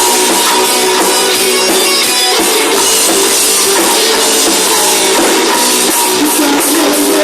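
Rock band playing live: guitars over a drum kit, loud and continuous, with no singing.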